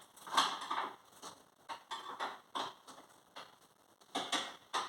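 Hand tools and metal fasteners being worked during car front-end reassembly: a run of irregular clicks and scrapes, the loudest just under half a second in and two more close together about four seconds in.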